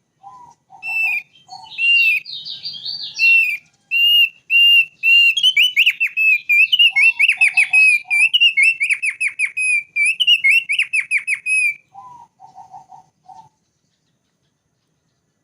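Thick-billed white-eye (opior paruh tebal) singing: a string of clear, repeated whistled notes that quickens into rapid trilled runs. Short, lower notes come at the start, in the middle and just after the song stops, near the end.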